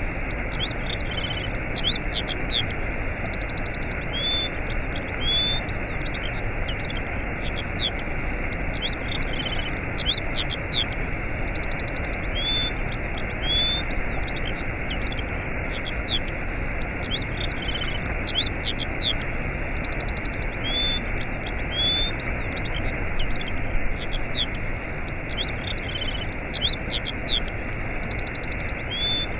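Waterfall rushing steadily, with small birds chirping, whistling and trilling over it. The same run of bird calls repeats every seven or eight seconds, as in a loop.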